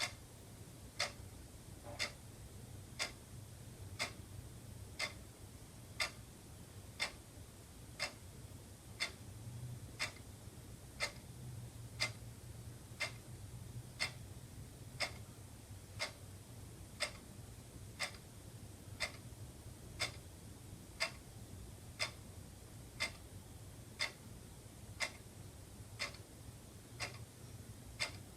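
Wall clock ticking steadily, one sharp tick a second, over a faint low hum.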